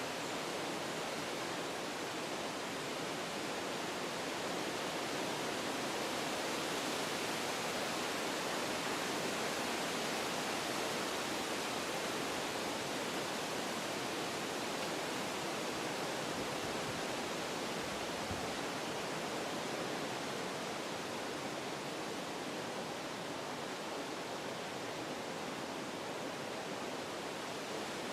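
Wind blowing through forest trees, a steady rush of leaves and branches that swells a little a few seconds in and eases off toward the end.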